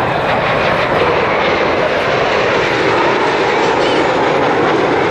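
Kawasaki T-4 jet engines of the Blue Impulse team, a loud, steady jet noise. Crowd voices can be heard underneath.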